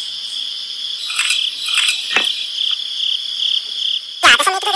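Crickets chirping: a steady high trill with pulsed chirps over it. A pitched, voice-like call comes in near the end.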